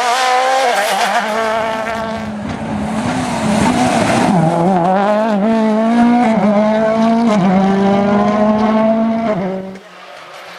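Rally car engine revving hard at high rpm, its pitch climbing and dropping back sharply a couple of times as with gear changes; it cuts off abruptly near the end.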